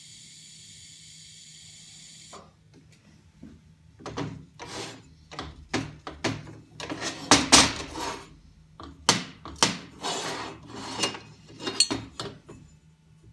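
Steel parts knocking and clanking irregularly against a metal welding table, some strikes sharp with a short ring. A steady high hiss runs for about the first two seconds and stops before the knocking starts.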